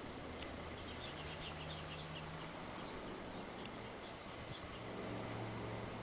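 Steady outdoor hiss of wind, with a faint low hum underneath. About a second in comes a quick run of short, high bird chirps, and a few single chirps follow later.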